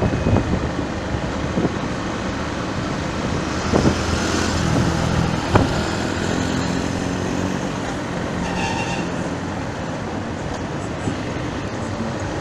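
Road traffic: motor vehicle engines running steadily with road and wind noise, and a brief knock about five and a half seconds in.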